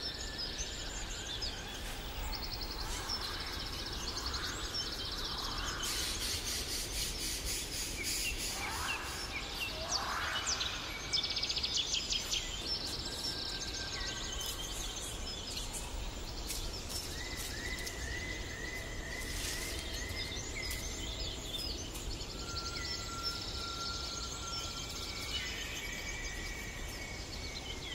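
Several birds chirping, trilling and whistling over a steady low hiss of outdoor ambience.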